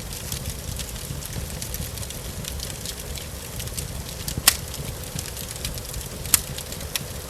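Wood fire crackling with many small snaps and two louder pops about four and a half and six and a half seconds in, over a steady low rumble.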